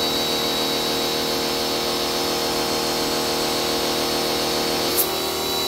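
Simoniz 1800 psi pressure washer running steadily under spray, a continuous motor hum with a high steady whine. A short click about five seconds in.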